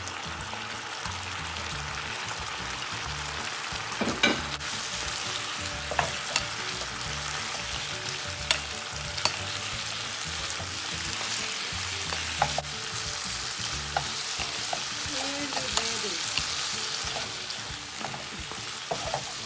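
Fried catfish pieces sizzling as they are stirred into red curry sauce in a stone-coated non-stick frying pan: a steady sizzle, with sharp knocks of the stirring utensil against the pan every second or few.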